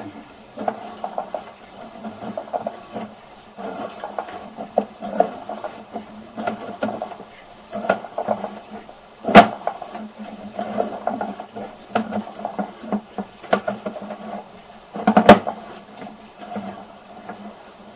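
Sewer inspection camera's push cable being fed down the line, rattling and clicking unevenly over a steady low hum, with two sharp loud knocks, about nine and fifteen seconds in.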